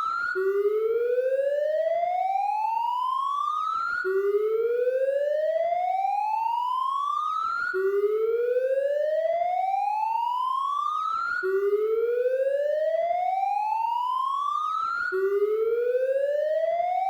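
Police siren sounding a slow wail: each tone rises steadily in pitch for about three and a half seconds, then drops suddenly back to low and climbs again, over and over at an even, steady loudness.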